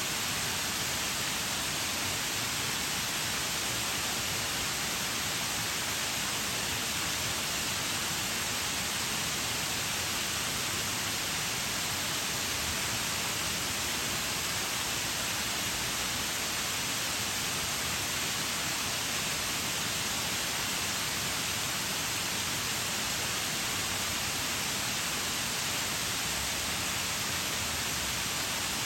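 Waterfall: a steady, even rush of falling water, bright and hiss-like, with little low rumble.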